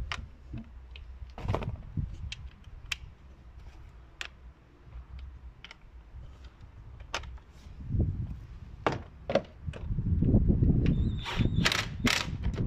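Metal tools clicking and knocking against car parts, with a louder low rumble about ten seconds in.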